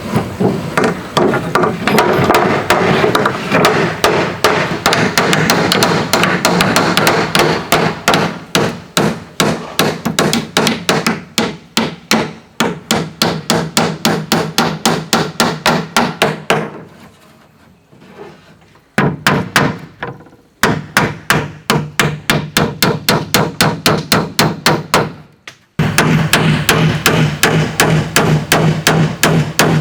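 Hammer blows on wood in a fast, steady run of about four strikes a second, stopping for a couple of seconds a little past the middle and briefly again near the end.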